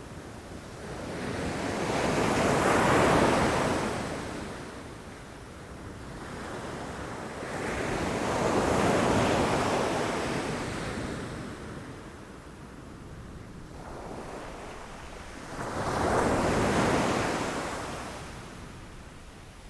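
Ocean waves breaking against rocky shore, three swells of surf about every six to seven seconds, each rising to a wash and fading back. The third comes in more suddenly, about sixteen seconds in.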